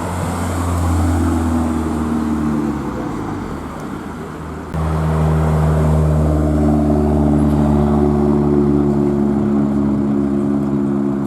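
Car engines running steadily with a low, even note. About five seconds in, the sound switches abruptly to a louder, steady engine drone.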